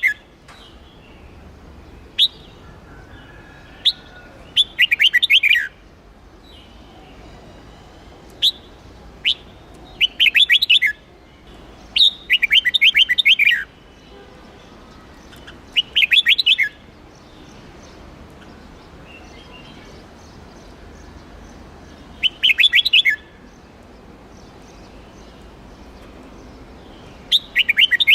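Red-whiskered bulbul singing: about six short, rapid warbled phrases of roughly a second each, a few seconds apart, with single sharp chirps in between.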